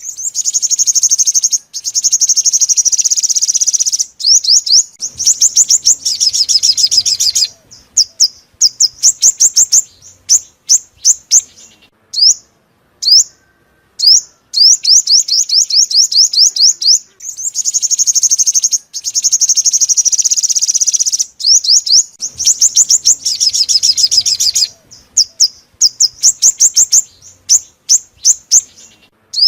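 Sunbird song: fast, high-pitched trills of rapidly repeated notes in stretches of two to three seconds, alternating with runs of separate sharp chirps, the same sequence coming round again about halfway through.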